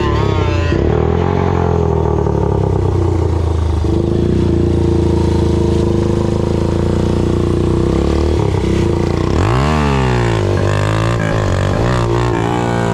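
Dirt bike engine running under way, holding a steady pitch for several seconds. About ten seconds in, the revs rise and fall sharply, then swing up and down a few more times as the throttle is worked.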